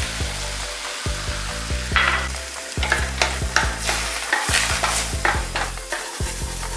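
Egg frying and sizzling in a wok while being stirred, with the spatula scraping and clicking against the pan many times.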